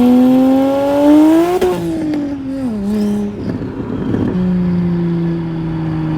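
Single-turbo BMW 335i's inline-six engine accelerating, its pitch climbing for about a second and a half and then dropping away. There is a short noisy rush about three and a half seconds in, then the engine carries on at a steady, lower, slowly falling pitch.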